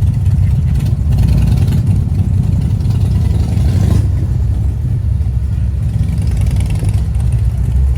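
A car engine running, with a steady low rumble.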